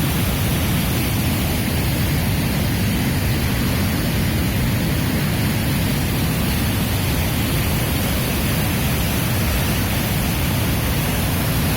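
Waterfall's falling water, a loud steady rushing noise.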